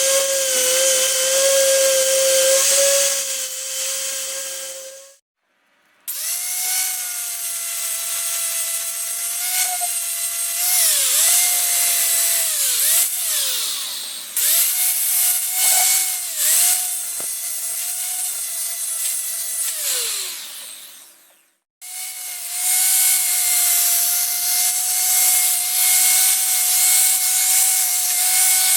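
High-speed power tool, such as a cut-off wheel or grinder, cutting and grinding on metal: a steady high whine with a hiss. The whine drops in pitch again and again as the wheel bites into the work and recovers, and twice it spins down as the tool is released.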